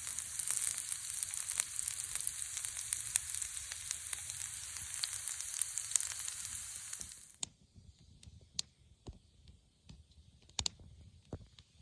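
Food sizzling and spitting in a hot pan, with scattered sharp pops. The sizzle cuts off suddenly about seven seconds in, leaving a few isolated crackles.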